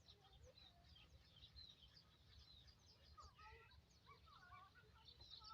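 Faint birds chirping and twittering, many short notes scattered throughout, over a low background rumble.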